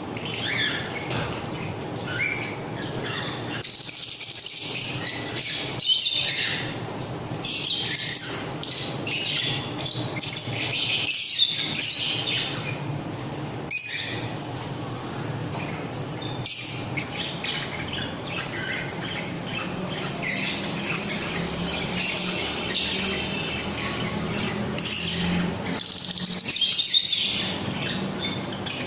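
A flock of small pet parrots (lovebirds, budgies, cockatiels and ringnecks) chirping and squawking together in a continuous, busy chatter, with a few brief lulls.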